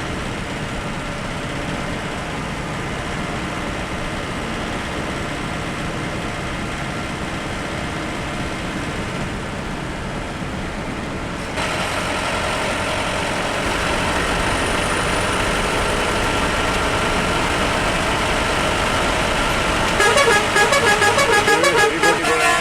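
Bus engine and road noise running steadily, getting louder about halfway through. Near the end a loud, warbling multi-tone horn blares in rapid pulses for about two seconds.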